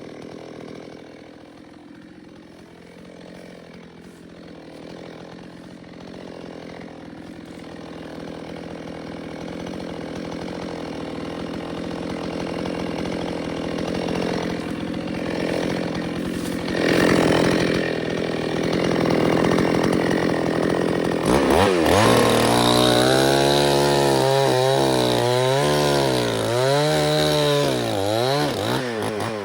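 Chainsaw running and grows steadily louder. About two-thirds of the way in it gets much louder, and its pitch dips and recovers again and again as it cuts through wood.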